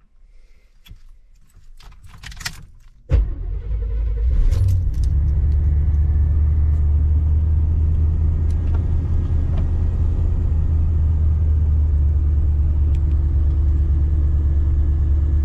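Keys jangling and small clicks, then about three seconds in a 1989 Chevy G20 van's engine starts and settles into a steady idle.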